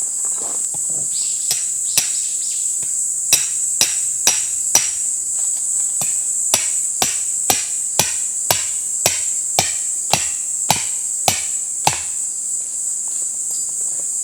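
Hammer blows struck in steady runs of about two a second, sharp and ringing slightly, with a short pause between the runs. Insects trill steadily throughout.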